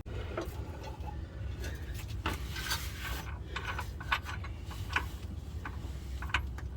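Scattered light clicks and knocks of metal parts being handled during a transmission install, over a low steady rumble.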